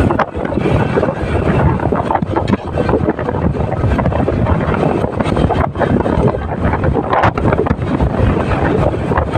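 Wind buffeting the microphone of a moving motorcycle, a loud, gusty rush mixed with the motorcycle's road and engine noise.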